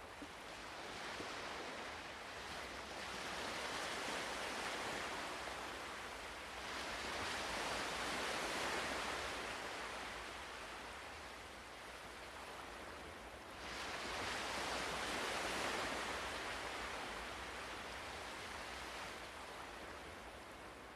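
Ocean surf washing in and drawing back in slow swells, about three surges, the last rising sharply about two-thirds of the way through.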